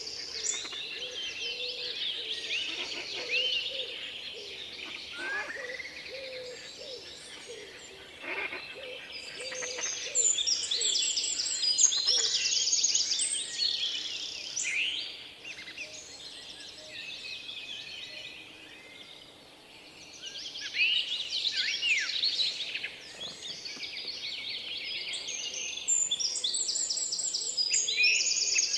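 Several small songbirds chirping and singing, with overlapping calls and fast, high trills. The chorus thins out about halfway through, then picks up again.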